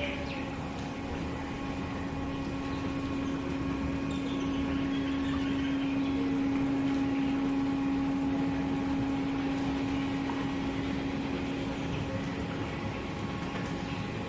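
An engine running steadily, with a constant low hum, getting a little louder in the middle.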